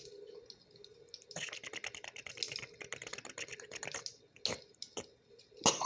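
A cat licking and chewing after a meal: a quick run of small, wet clicks that starts about a second and a half in and lasts a few seconds, followed by a couple of separate louder clicks.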